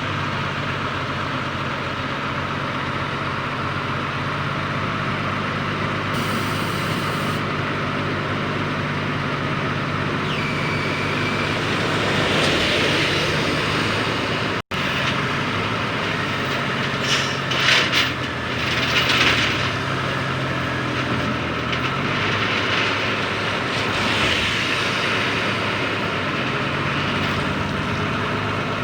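Heavy diesel engine of road-construction machinery running steadily, with a few short bursts of hiss about two-thirds of the way in.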